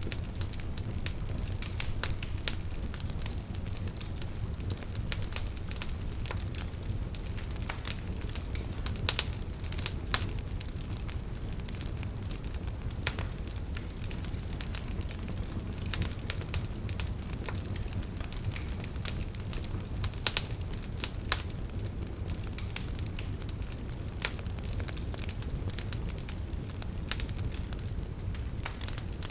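Wood fire burning in a fireplace: a steady low rumble of the flames with frequent sharp crackles and pops from the burning logs, a few louder pops scattered through.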